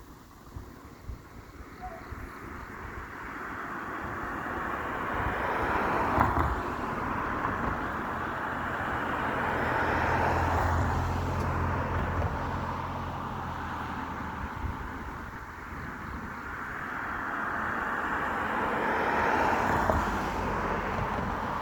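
Road traffic: vehicles passing one after another, the noise swelling and fading in waves, with a steady low engine hum from one vehicle in the middle stretch.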